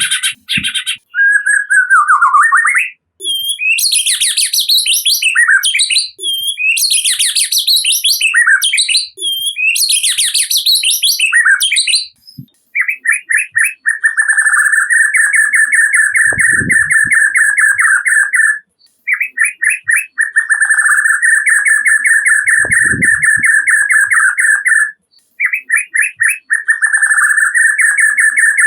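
White-rumped shama singing. It starts with varied whistled phrases and gliding notes, then from about halfway gives three long runs of rapid, rattling repeated notes with short breaks between them.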